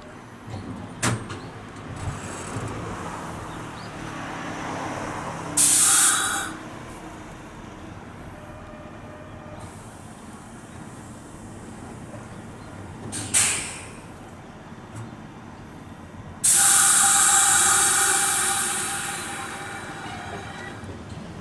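Nose Electric Railway 1700 series train standing at the platform with a low steady hum, letting out loud hisses of compressed air: a short one about six seconds in, a brief one near thirteen seconds, and a long one near the end that slowly fades. A sharp click comes about a second in.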